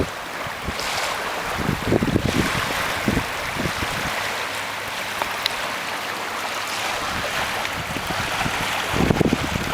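Water rushing and splashing along the hull of a small sailboat under way, with wind buffeting the microphone in gusts, strongest about two seconds in and near the end.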